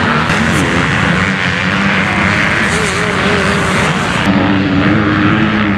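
Motocross bike engines running hard, a loud continuous drone whose pitch rises and falls as the throttle opens and closes. The sound changes abruptly about four seconds in.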